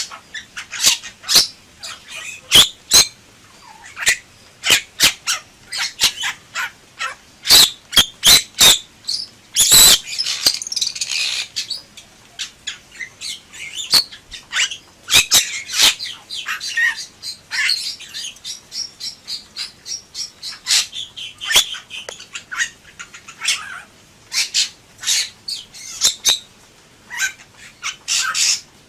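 Bali myna calling in a long run of sharp, loud clicks and harsh squawks. About ten seconds in comes a longer rasping burst, and later the bird breaks into denser chattering and warbling.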